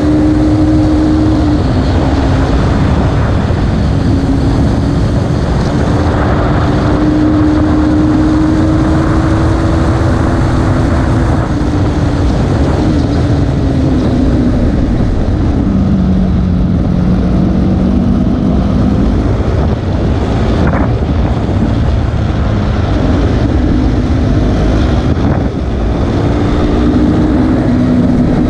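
KTM RC 390's single-cylinder four-stroke engine running hard on track, with heavy wind rush over the mic. The engine note falls away about sixteen seconds in and then climbs again.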